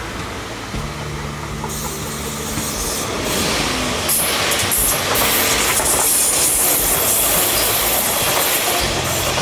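A train running on the tracks through the station, its noise growing louder about three seconds in, over a steady low hum.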